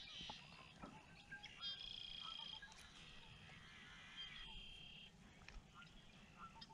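Faint birdsong: a few short, high trills and chirps, the clearest about two seconds in and again just after four seconds, over a faint low hiss.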